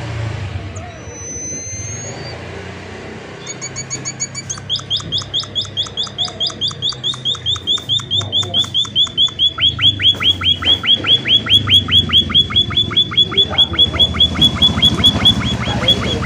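Small seed-eating finch (emprit) calling in a long rapid series of sharp downward-slurred notes, about four or five a second, starting a few seconds in and growing louder. It is preceded by a few thin whistled notes, over a steady low hum.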